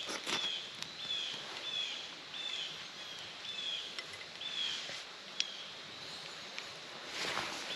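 A bird calling with a string of short, evenly repeated high notes, about one and a half a second. Brief rustling near the start and again near the end.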